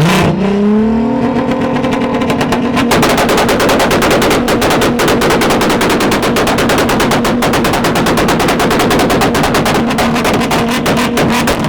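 A car engine revved up and held high against a limiter, with a loud, very rapid machine-gun-like crackle of exhaust pops that starts about three seconds in.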